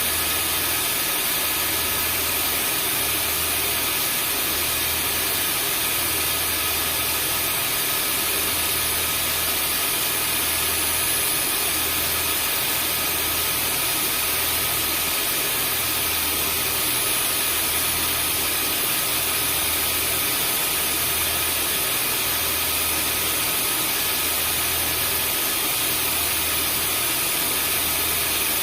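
Vacuum cleaner running steadily, its motor a constant rushing hiss with a fixed high whine, over a low hum that pulses about every two seconds.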